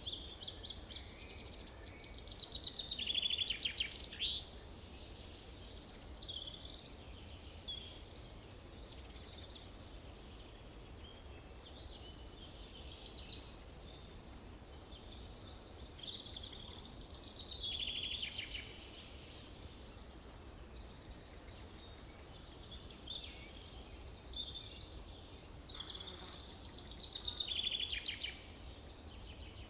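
Several songbirds singing in a forest, short overlapping phrases throughout, with a louder rapid trilling song coming three times. A faint steady low rumble runs underneath.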